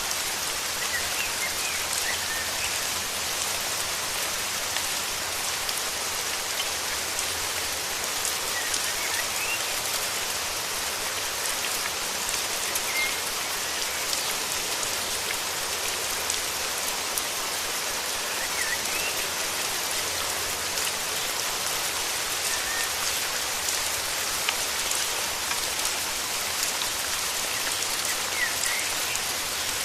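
Steady rain falling, with a few faint, short bird chirps every few seconds.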